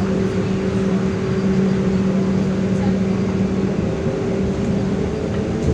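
Cabin sound inside a MAZ-105 articulated city bus: the engine and drivetrain running with a steady low rumble and a held droning tone. The lower part of the drone fades about four seconds in.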